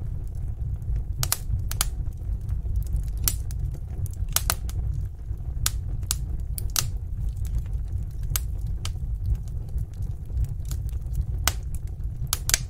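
Wood fire crackling in a fireplace: sharp, irregular pops and snaps over a steady low rumble of the burning fire.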